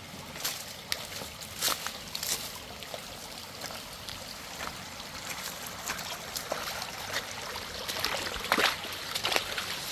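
Water trickling and running, with irregular short sharp sounds over it, the loudest near the end.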